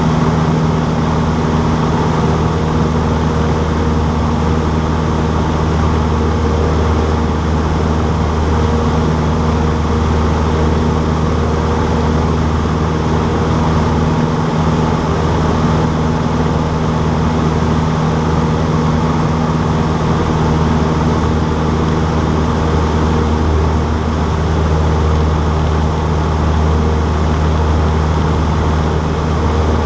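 Cessna 152's four-cylinder air-cooled Lycoming engine and propeller running steadily, a loud even drone that holds constant pitch throughout.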